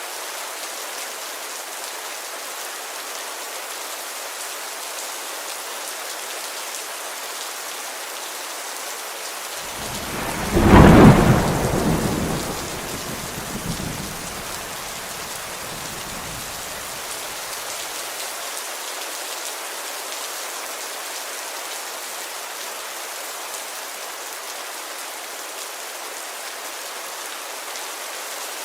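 Steady rain pattering on a window, with one loud clap of thunder about ten seconds in that rumbles away over several seconds.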